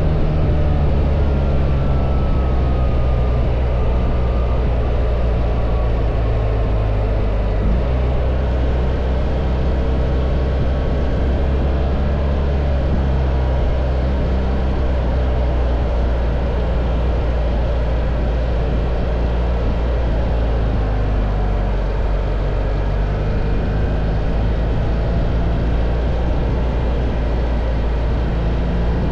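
BMW R1300 GS boxer-twin engine running while riding, with road and wind noise. The engine note sinks a little over the first several seconds, then changes abruptly about eight seconds in and holds steady.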